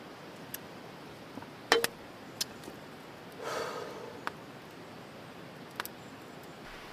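Scattered sharp clicks and small knocks over a steady low hiss. The loudest is a double click a little under two seconds in, and a short breathy rush comes about halfway through.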